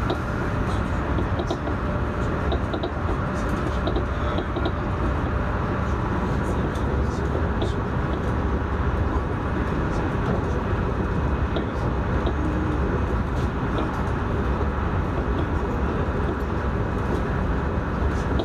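Alstom Régiolis regional train running at speed, heard on board: a steady low rumble with a few faint ticks and rattles.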